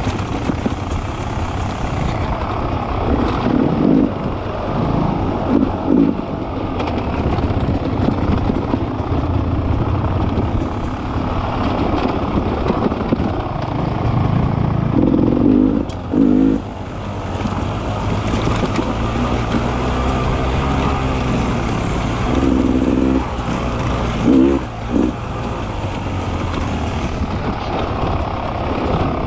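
Beta 300 RR two-stroke dirt bike engine running on the trail, revving up in short bursts and backing off several times.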